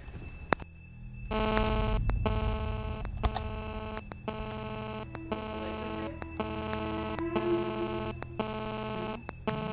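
Steady electrical hum made of many stacked tones, starting about a second in after a brief near-quiet gap and cutting out for an instant roughly once a second.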